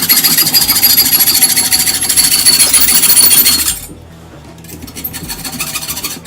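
Power tool cutting through a steel hex key (Allen wrench): a loud grinding hiss with a steady high whine that sags slightly in pitch, then cuts off about four seconds in.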